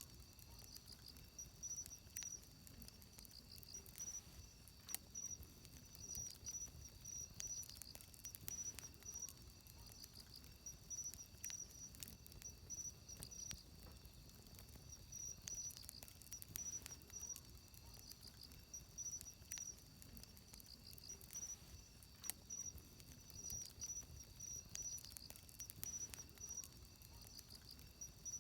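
Wood campfire crackling with irregular sharp pops, over insects chirping in a steady, pulsing high trill.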